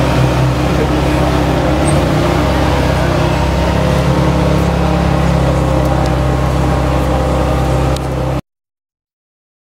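Ferrari F430's V8 engine running at low revs as the car creeps forward, a steady deep rumble. The sound cuts off suddenly a little after eight seconds in.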